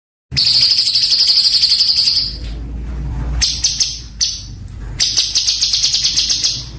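A songbird singing harsh, tightly packed bursts of rapid repeated notes. The song starts abruptly just after a moment of silence and comes in several bursts separated by short pauses.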